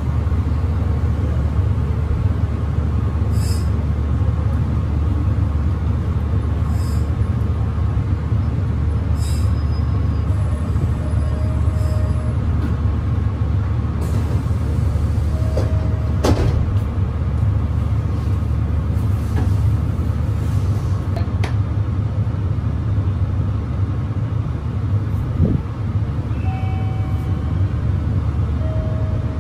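Running noise inside a Meitetsu local train car in motion: a steady low rumble of wheels on rail and traction gear, with a few scattered clicks and short squeaks.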